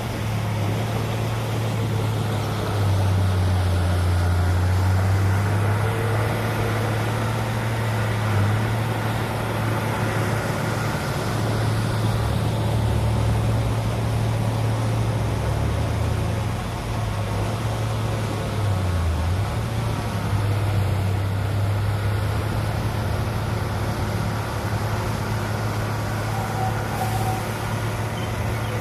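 Heavy diesel engine of earth-moving machinery running steadily, its low note shifting up and down several times as the load and throttle change.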